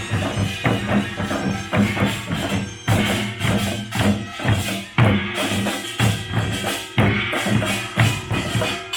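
Pungmul (nongak) Korean folk percussion band playing loud drums in a fast, driving rhythm, with heavy accents about once a second.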